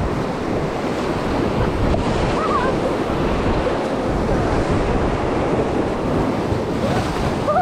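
Rushing whitewater of a river rapid, a steady loud churning noise around the raft, with wind buffeting the microphone.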